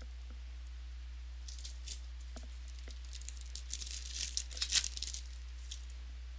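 Trading-card pack wrapper crinkling and tearing as it is opened by hand, a run of dry crackles that is loudest about four to five seconds in. A steady low electrical hum runs underneath.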